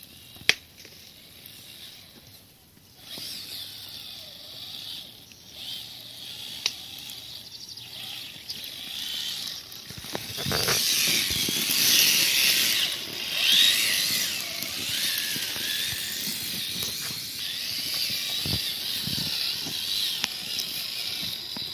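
Small electric motor and gears of a radio-controlled scale trail truck whining, the pitch wavering up and down with the throttle, louder in the second half, with a few sharp clicks.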